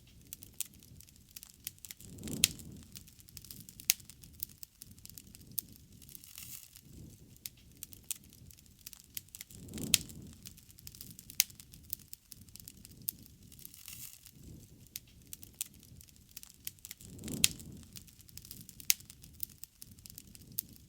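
Wood bonfire crackling with irregular sharp pops and snaps, and a low swell of the flames about every seven to eight seconds.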